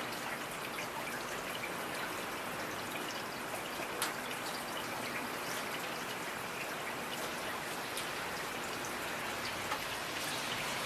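Steady rain with scattered individual drops ticking, and one sharper drop about four seconds in.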